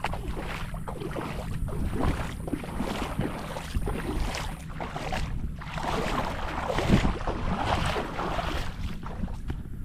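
Wind buffeting the microphone with a steady low rumble, and a small wave washing up on the shore from about halfway through.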